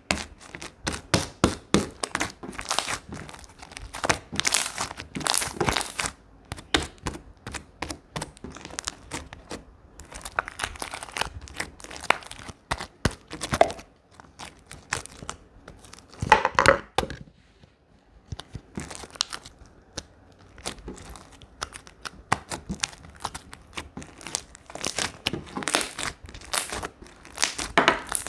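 Slime being squeezed, stretched and poked by hand, giving dense runs of crackling pops and clicks, with two short pauses about halfway.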